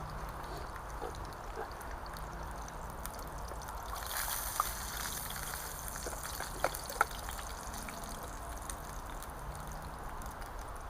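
Sausages and eggs sizzling steadily in a frying pan over a wood campfire, with a few sharp pops in the middle.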